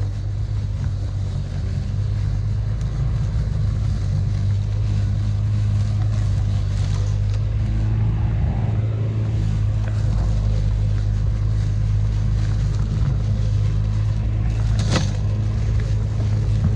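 Bosch Rotak 37 LI 36V cordless lawn mower mowing, its electric motor and blade giving a steady hum. A single short sharp click comes near the end.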